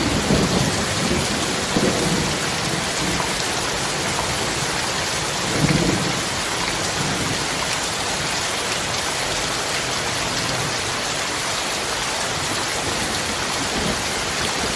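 Steady heavy rain with low rolls of thunder, a rumble at the start, another about two seconds in, and a stronger one about six seconds in.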